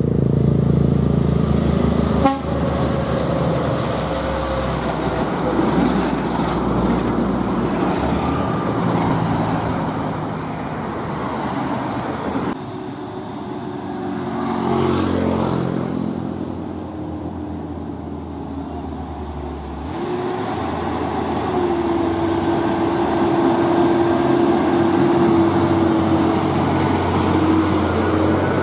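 Heavy diesel trucks running on the road, with engine and tyre noise. A vehicle goes past about halfway through, and a steady tone holds for several seconds in the second half.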